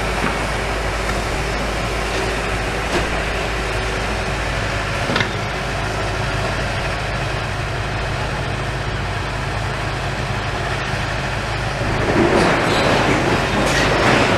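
A heavy engine running steadily, with louder rumbling and rattling building about twelve seconds in.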